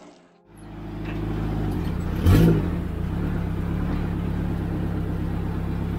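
Turbocharged Toyota 1NZ-FE four-cylinder engine of a Lada 2105 running steadily under way, heard from inside the cabin, fading in about half a second in. About two seconds in comes a short, loudest burst whose pitch rises and falls.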